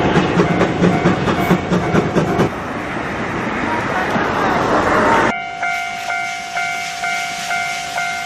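Train sounds: a repeating ringing tone over rumbling noise, then a swelling hiss. From about five seconds in, a clear ringing repeats about twice a second, each ring dying away.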